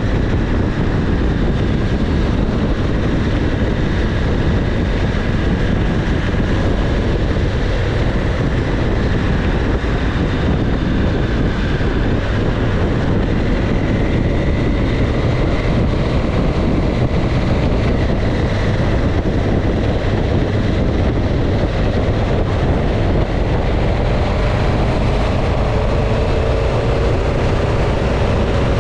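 Motorcycle under way: steady wind rush over the microphone with the engine running underneath, its note shifting slightly near the end.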